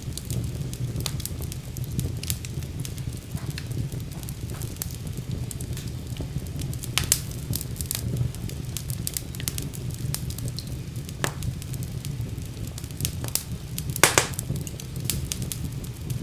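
Fire burning in a fireplace: steady low flame rumble under continuous crackling, with a few sharper pops, the loudest near the end.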